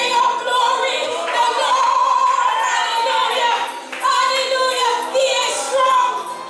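Singing voices in a church, long held notes that waver in pitch, with short breaks between phrases.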